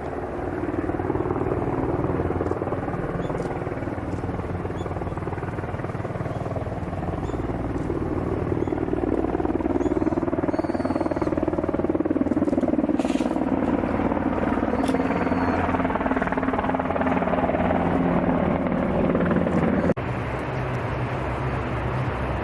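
Aircraft engines running loud and steady, the pitch drifting slowly up and down, with an abrupt cut about 20 seconds in.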